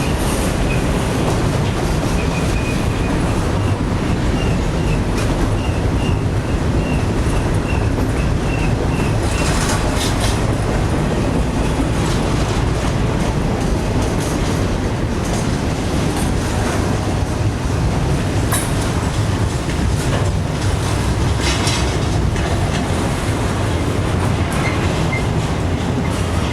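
Norfolk Southern freight train rolling past with a steady, loud rumble of cars and a few sharp clacks from the wheels. A faint, pulsing wheel squeal runs through roughly the first third.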